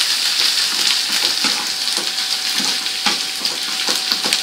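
Sliced onions and ginger sizzling in hot oil in a nonstick frying pan, frying golden for a tarka. A wooden spoon stirs them, with irregular scrapes and light knocks against the pan through the steady hiss.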